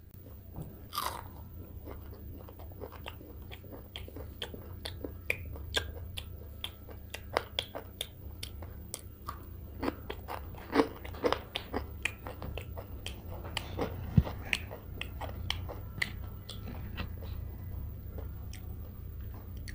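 Close-miked eating of fried rohu fish: biting and chewing with many irregular crisp crunches and mouth clicks, over a steady low hum.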